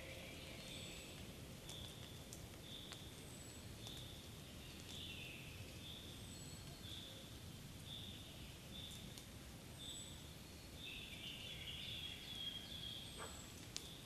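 Faint forest birdsong: a small bird repeating short high notes about twice a second, with a thinner, higher whistle every couple of seconds, over a soft background hiss.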